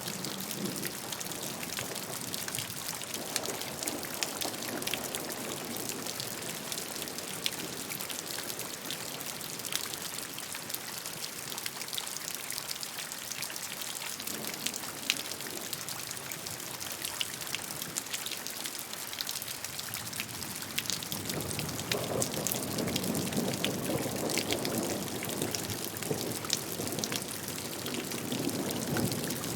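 Steady rainfall, individual drops ticking sharply over an even hiss, with a fuller, lower rush of rain swelling in about two-thirds of the way through.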